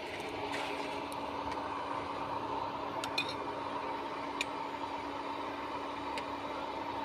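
Steady rushing hiss of kitchen cooking noise, with a few sharp light clicks about half a second in, about three seconds in, and near four and a half and six seconds.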